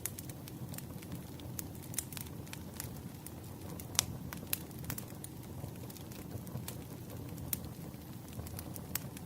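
Firewood burning: a steady low rush with frequent irregular crackles and pops, one sharper pop about four seconds in.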